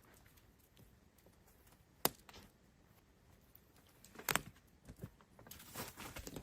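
Two sharp knocks, about two seconds apart, then soft rustling and handling noises.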